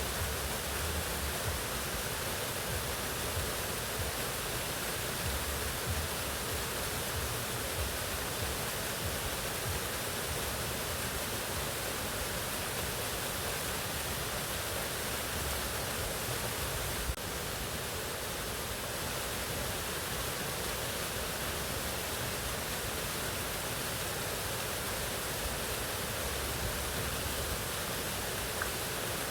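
Mountain waterfall: water falling and rushing in a steady, even wash of sound.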